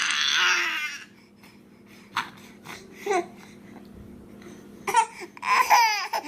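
A baby vocalising: a loud squeal in the first second, a few short babbling sounds, then fussing cries with wavering pitch near the end that lead into crying.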